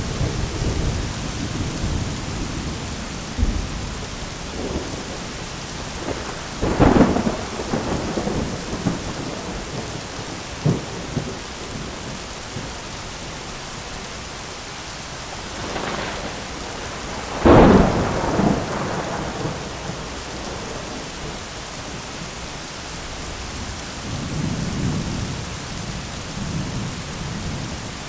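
Thunderstorm: steady rain hissing throughout, with low rolling thunder. Two sharp thunderclaps cut through, one about seven seconds in and a louder one a little past halfway, each trailing off in a rumble, and a low roll returns near the end.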